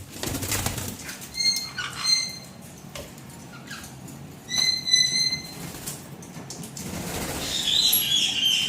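Baby white-bellied caiques bathing in a sink: bursts of wet wing-flapping and splashing, with several short high chirps and a longer call near the end.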